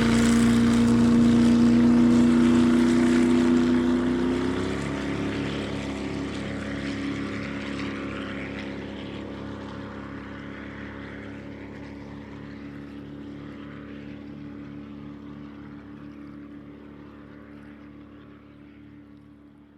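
A vehicle engine running with a steady hum. Its pitch drops a little about four and a half seconds in, and then it fades steadily away as the vehicle drives off into the distance.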